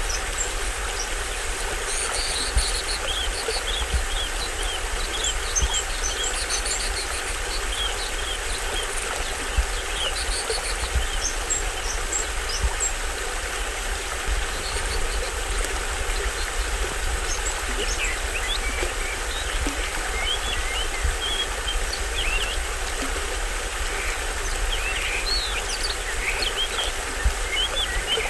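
A small waterfall on a stream splashing steadily with a deep rumble under it, and many short high forest bird chirps and calls over the water, busier in the second half.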